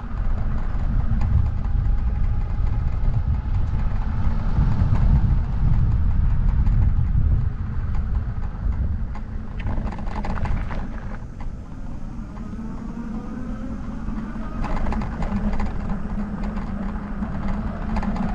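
Wind buffeting the microphone with the rumble of a bicycle rolling along, and small rattles and clicks throughout. About ten seconds in, a faint rising whine.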